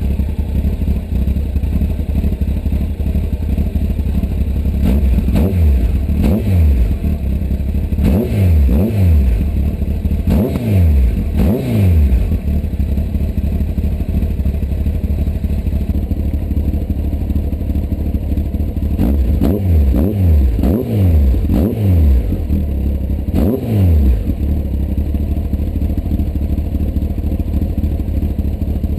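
Honda CBR1100XX's inline-four engine idling through its exhaust, blipped repeatedly: a run of short revs up and back down in the first half, a second cluster a few seconds later, then steady idle to the end.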